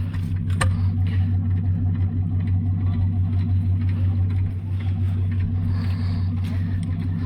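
An engine running steadily with a low, even hum, and a sharp click about half a second in.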